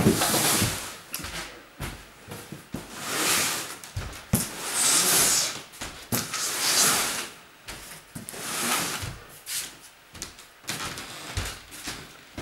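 Household objects being handled and moved: repeated rustling and scraping swells about every two seconds, with scattered knocks.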